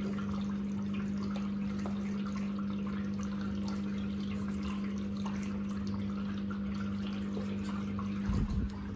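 Washer-dryer drain pump running with a steady hum while water pours out through the drain, with a brief low knock near the end.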